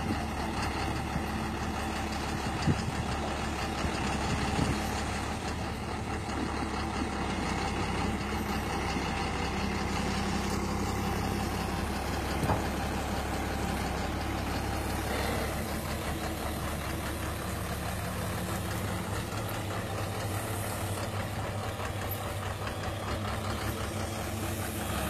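Excavator's diesel engine running steadily, with a few sharp metallic clanks about three, five and twelve seconds in.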